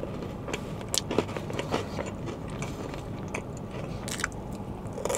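A person biting and chewing an Italian cookie close to the microphone, with short crisp clicks now and then and a fresh bite about four seconds in.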